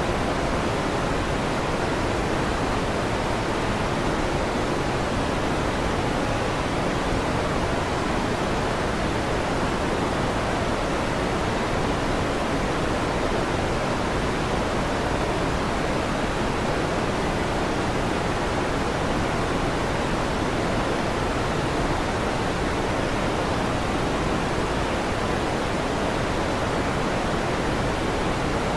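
Electric fan running at a steady speed: an even, unchanging whoosh.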